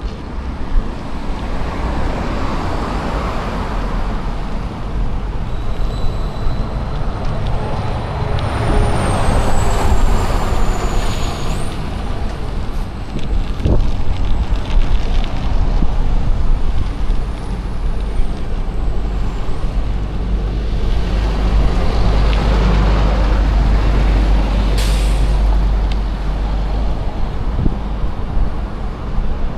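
Wind rushing and buffeting on the microphone of a moving bicycle, with passing road traffic swelling and fading several times.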